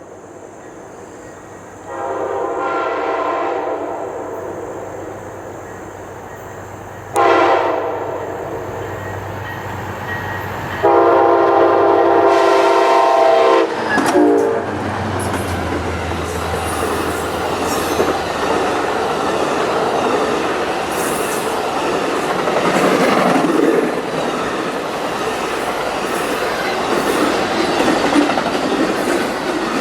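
CSX freight locomotive's air horn sounding four blasts: long, short, a long loud one, then a brief one. The train then rolls past with a steady rumble and the clickety-clack of wheels over the rail joints.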